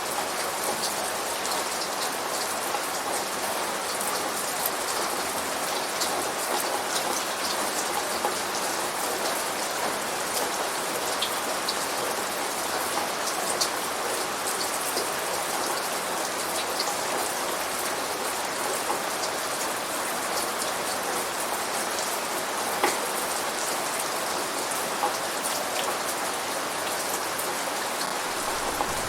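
Steady rain falling, an even hiss with scattered sharper drips ticking on a surface.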